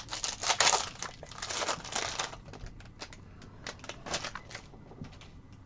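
Crinkling of a trading-card pack wrapper being handled, in dense bursts over the first couple of seconds, then lighter rustles and small clicks.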